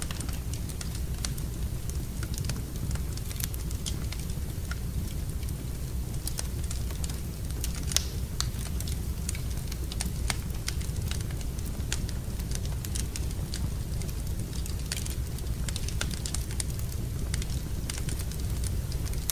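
Wood fire burning in a fireplace, crackling with scattered sharp pops over a steady low rumble; one pop near the middle stands out louder than the rest.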